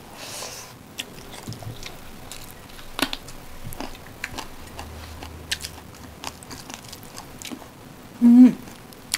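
Close-up eating sounds of people chewing rice and chicken curry eaten by hand: scattered soft wet mouth clicks and smacks, the sharpest about three seconds in. A short voiced hum near the end.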